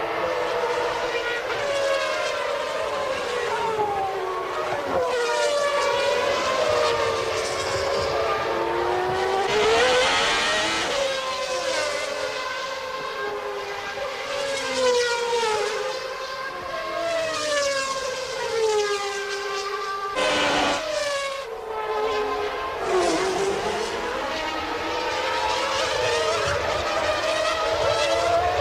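Several 1992 Formula One racing engines running at high revs, their overlapping notes climbing and dropping repeatedly as the cars accelerate, change gear and pass by.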